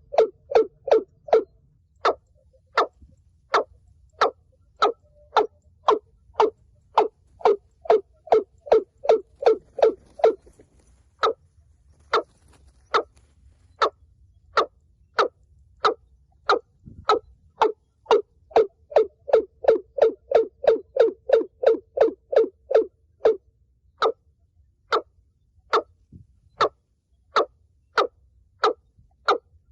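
Watercock giving a long series of short, deep, repeated calls, about two to three a second, speeding into close runs and slowing again, with a couple of brief pauses.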